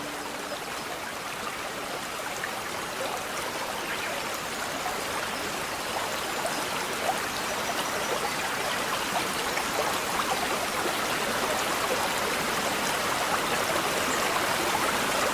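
Small babbling brook: water rippling and trickling over stones in a steady, even burble that grows slightly louder over the stretch.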